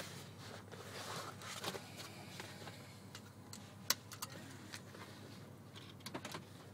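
Faint steady hum of a car idling, heard from inside the cabin, with a few scattered sharp clicks, the loudest about four seconds in.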